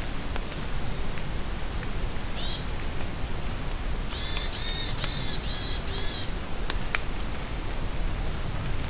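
Steady rain falling in a forest with wild birds calling; about four seconds in, one bird gives a quick run of five loud calls, after a few softer ones earlier. A sharp drip-like tick comes near the end.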